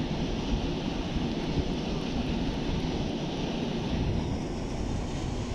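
Steady wind rumble buffeting the microphone, a low, even noise with no distinct events.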